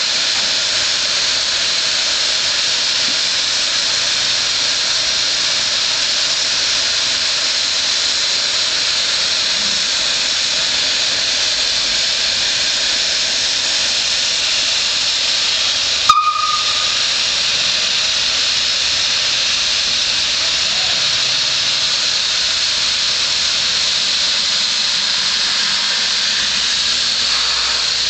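Swiss-built SLM rack steam locomotive letting off steam in a steady, loud hiss. A sharp click about halfway through is followed by a brief high tone.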